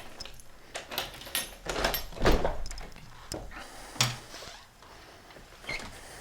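A series of knocks and clicks, the loudest about two seconds in, and a single thump about four seconds in.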